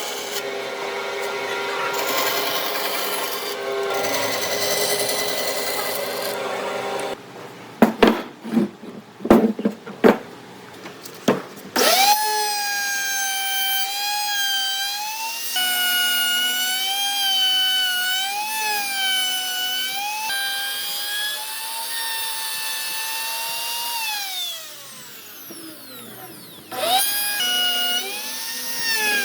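Electric power tools working wood. First comes a rough scraping, abrasive noise, then a handful of sharp knocks. After that a motor whines steadily, its pitch wavering up and down as it works; near the end it winds down and starts up again.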